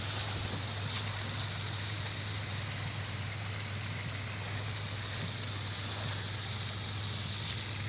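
Steady rush of stream water over the low, even hum of a Toyota Land Cruiser's engine as the vehicle wades through the stream.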